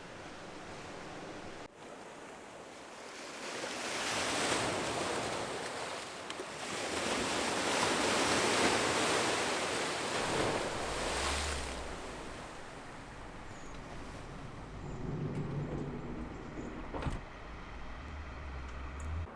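Surf: a wave swells and washes in over several seconds, then ebbs away. It is followed by a quieter low steady hum with a single click near the end.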